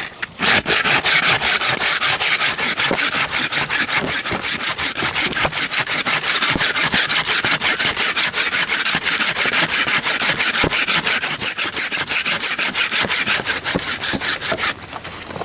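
Hand saw cutting through wood with fast, even back-and-forth strokes, about five a second, stopping near the end.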